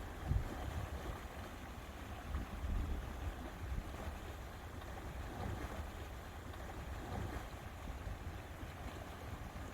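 Lakeside ambience: wind rumbling on the microphone in gusts over a soft, steady wash of lapping water.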